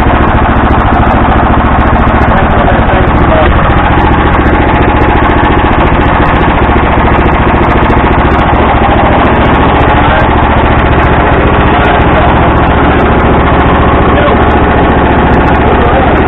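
Harbor Freight small engine running loud and steady at a constant speed, on its first run after being fitted.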